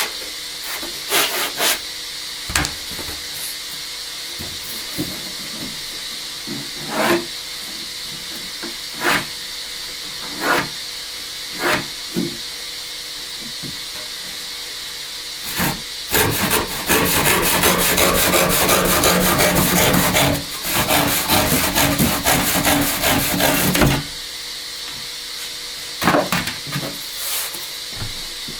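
Sandpaper rubbed by hand along the sawn edges of laminated chipboard pieces to take off the burrs. Scattered single strokes at first, then a loud run of quick back-and-forth strokes from about the middle until a few seconds before the end, then a few more single strokes.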